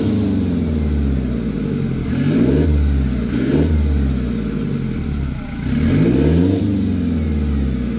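Toyota Hilux engine revved through a Greddy cat-back exhaust with a side-step-board exit and dual titanium tips, fed by an HKS downpipe. A rev dies away at the start, two quick blips follow about two and a half and three and a half seconds in, and a longer rev climbs about six seconds in before falling back to idle.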